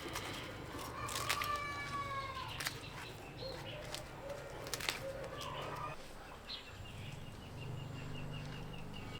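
A rooster crowing once, a long call that falls slightly at its end, among a few sharp clicks. Near the end comes a rapid high trill of short repeated notes, from another bird.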